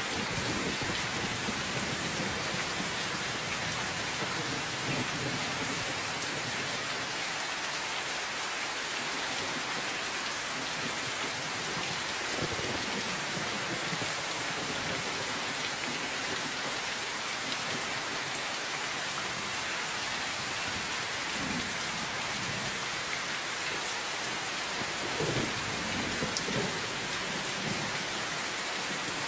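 Steady rain falling, a dense even hiss, with a few low rumbles swelling up near the middle and again near the end.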